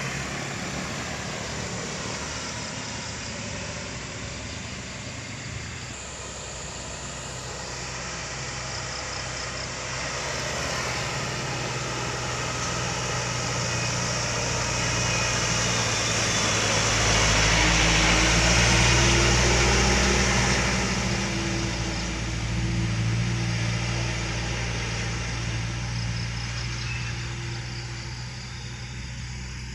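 Truck engine running, growing louder to a peak a little past the middle and then fading, as a truck passes.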